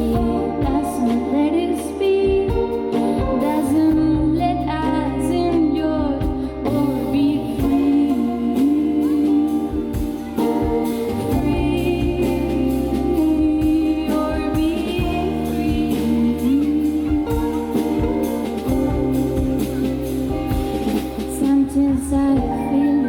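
A live band performing a song: a sung melody over held bass and chords, with percussion coming in about six seconds in.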